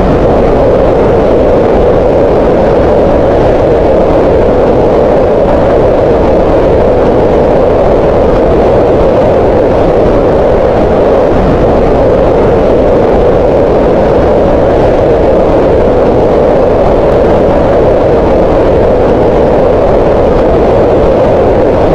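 Green noise: steady, loud synthetic noise with its energy centred around 500 Hz, unchanging throughout.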